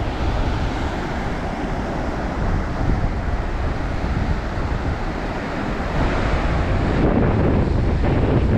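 Strong wind buffeting the microphone over Baltic Sea surf washing onto the shore, growing a little louder about six seconds in.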